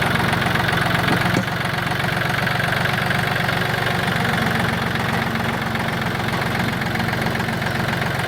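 Farm tractor engine running steadily with a rapid even throb, easing slightly about a second and a half in.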